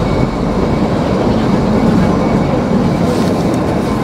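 Kalka–Shimla narrow-gauge toy train running at speed, heard from on board: a steady rumble and rattle of the wheels and carriage on the rails.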